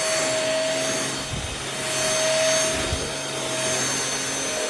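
MBYULO cordless stick vacuum running steadily: an even motor hum with a high whine over the rush of air, growing louder and softer as it is moved along the floor, with two soft low bumps in the middle.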